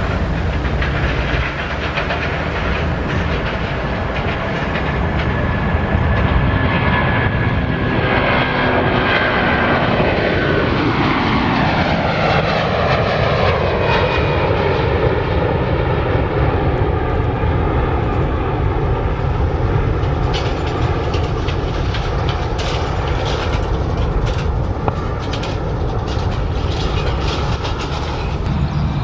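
Jet airliner's engines passing close by over a steady low rumble, their whine falling in pitch as the aircraft goes past.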